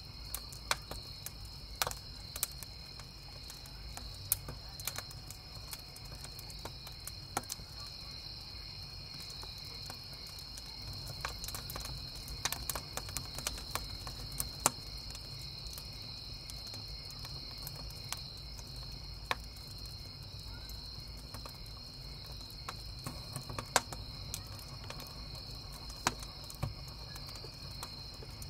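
Wood campfire crackling with scattered sharp pops, over a steady chorus of crickets chirping.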